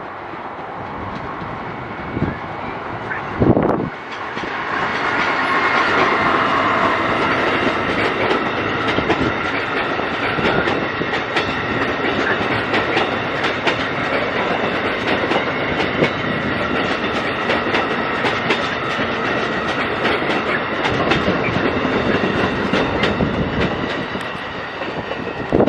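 Amtrak Pennsylvanian passenger train passing close by at speed: a loud, steady rush of running gear, thick with rapid wheel clicks and a steady high ringing tone. It builds in over the first few seconds, after two sharp knocks.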